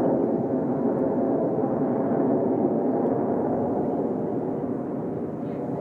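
Jet engines of Blue Angels F/A-18 Super Hornets going by overhead, a loud steady roar that eases a little near the end.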